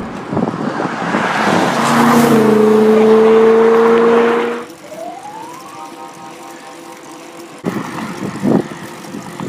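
A motor vehicle passing close on the highway, its rushing noise building over the first two seconds. A steady held tone is loudest for about two seconds and then cuts off, followed by a short rising whine.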